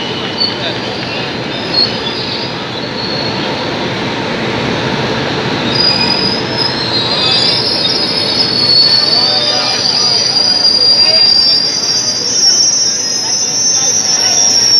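Indian Railways passenger coaches rolling past with a steady rumble. High, wavering wheel squeal joins in about six seconds in and stays loud through the rest.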